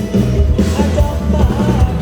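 Live luk thung band music: bass and a steady drum-kit beat under a melodic line.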